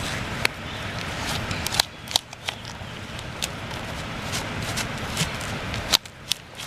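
Hands mixing wet fishing groundbait in a bowl: irregular small clicks and rustles over a steady background hiss.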